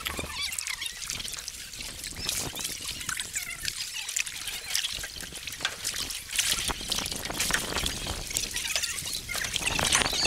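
Water trickling and splashing around a canoe on a river, with many small bubbly splashes that grow louder near the end.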